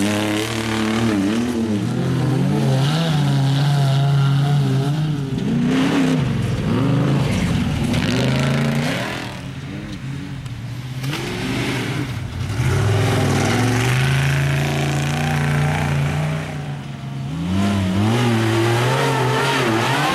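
Off-road desert race cars and trucks passing at speed, their engines revving with the pitch rising and falling through gear changes. The sound fades about halfway through and again near the end as one vehicle gets farther away and the next arrives.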